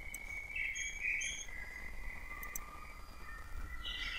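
Faint background bird calls: a held whistle-like note and short chirps at several pitches.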